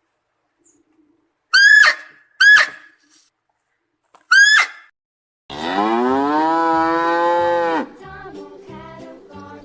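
Three short, high calls that drop in pitch, then a cow moos once in one long call of about two and a half seconds, followed by quieter, lower sounds.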